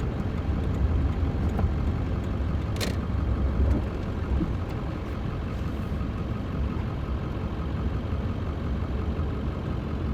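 Pickup truck under way at a steady speed: a low, even engine and road rumble. There is one brief faint tick about three seconds in.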